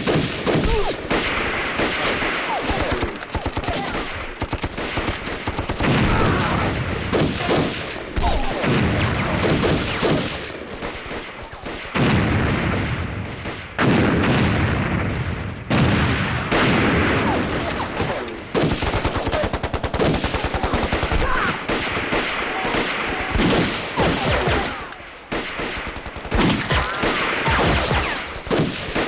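Sustained battle gunfire: a dense, continuous exchange of rifle and machine-gun shots, as in an ambush firefight.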